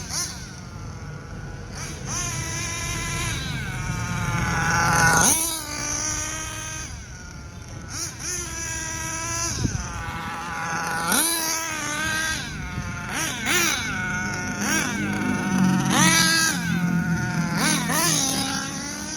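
Hobao Hyper VS nitro RC buggy engine running during break-in, a high-pitched whine that rises and falls in repeated short revs every couple of seconds.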